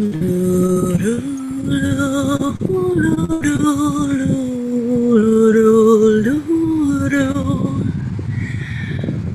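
Wordless singing: a voice holding long notes with a slight waver, moving in steps from one pitch to the next, over a steady rough noise underneath.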